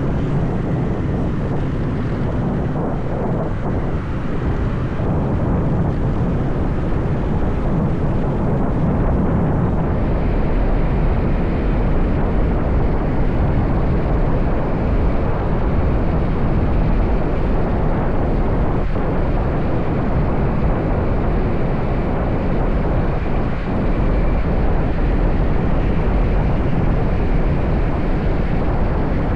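Riding noise from a motorbike: wind rushing over the microphone with the engine running underneath, loud and steady.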